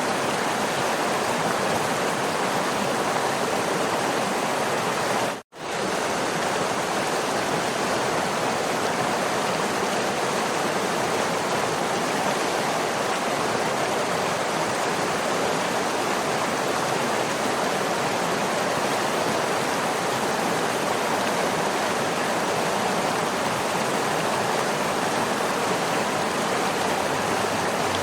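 Waterfall: a steady, even rush of falling water. About five and a half seconds in, the sound cuts out for a split second and resumes.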